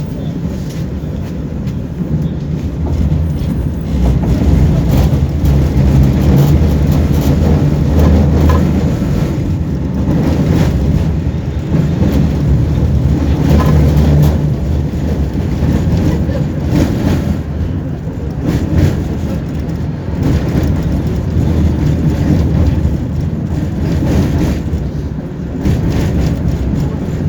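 Tram running along the rails between stops, heard from inside the car: a steady low rumble of wheels and running gear that gets louder about four seconds in, with occasional clacks.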